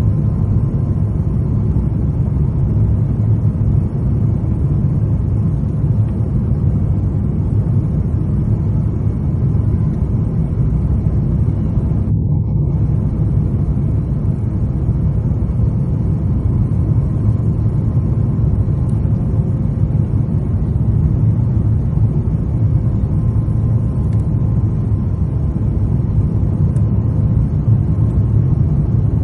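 Steady, loud low rumble of an Airbus A350-900's Rolls-Royce Trent XWB engines and airflow, heard inside the cabin beside the engine. It holds at one level throughout, with a faint steady tone above it.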